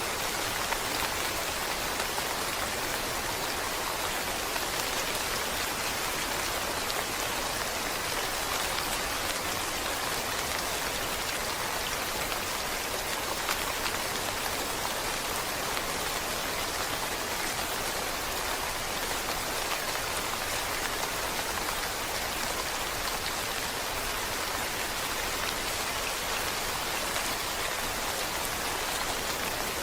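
Steady rain falling: an even, unbroken hiss of drops with no let-up or change.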